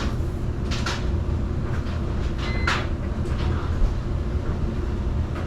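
Washing machine control panel giving one short electronic beep about two and a half seconds in as a button is pressed to start the wash, with a few clicks of handling. Underneath is a steady low rumble.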